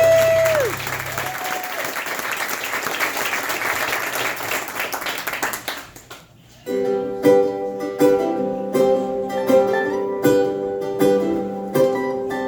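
A sung note and the band finish a song, followed by audience applause that fades out over several seconds. About seven seconds in, a plucked string instrument starts picking the next song's intro in a steady rhythm.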